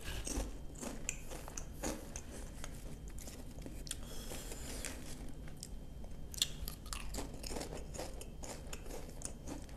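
A person chewing salt and vinegar potato chips, a run of short, sharp crunches spread through.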